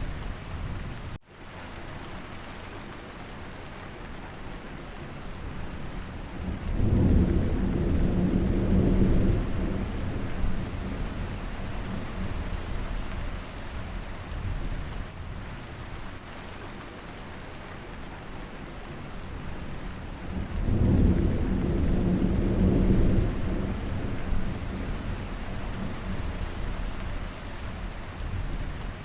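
Steady rain with two long, low rolls of thunder, about seven seconds in and again about twenty-one seconds in. A brief gap in the sound about a second in.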